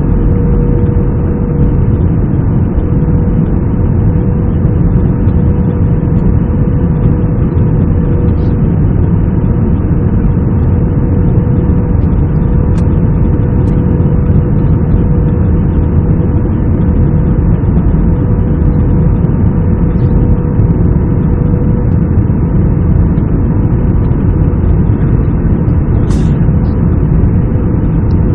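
Airbus A320 airliner's engines and airflow making a loud, steady drone, with a constant hum running through it. A few faint short clicks sound over it, the most noticeable near the end.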